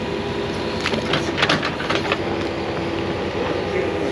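Engine of a small construction machine running steadily under load, with a cluster of sharp metal clanks and knocks about one to two seconds in.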